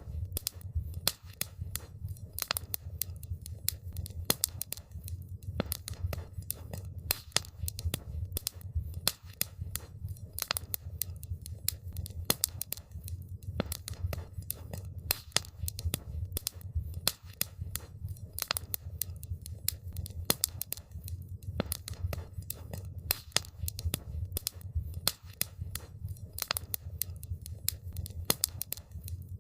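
Wood campfire crackling: a dense, irregular stream of sharp pops and snaps over a steady low rumble.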